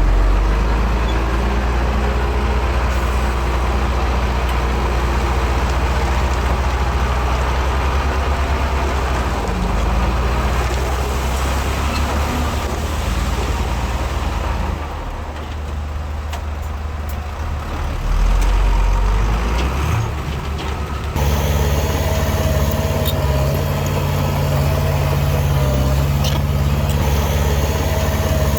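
Heavy diesel engines of earthmoving machines running steadily. The sound swells briefly about two-thirds of the way through, then shifts abruptly to a different, steady engine tone.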